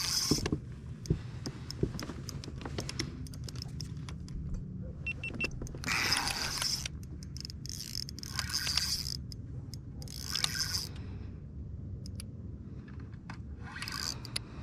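Spinning reel fighting a hooked fish: short buzzing bursts of drag, four or five of them, as the fish pulls line off, with small ticks from the reel in between.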